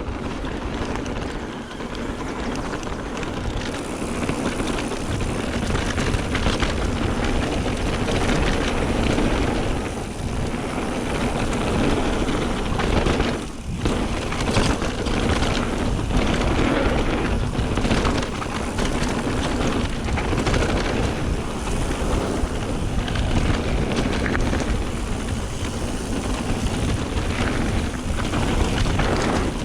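Mountain bike descending a gravel trail at speed: steady rush of wind on the camera's microphone and tyre roar, broken by constant rattles and knocks from the bike over rough ground, with a brief drop in the noise about halfway through.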